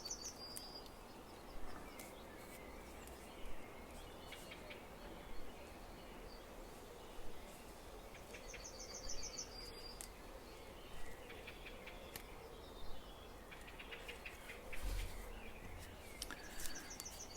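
A songbird calling in the background: a short, rapid, high trill that comes three times, about every eight or nine seconds, with briefer calls roughly every two seconds in between. Faint clicks and rustles of paper being handled and folded lie under it.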